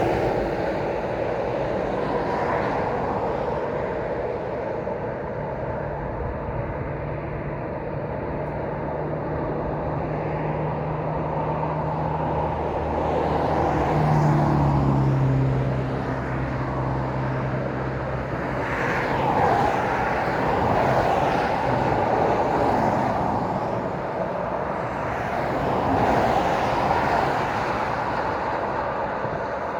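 Road traffic passing: tyre and engine noise of cars and lorries, swelling several times as vehicles go by. A low engine hum holds steady and then drops in pitch about halfway through as the vehicle passes.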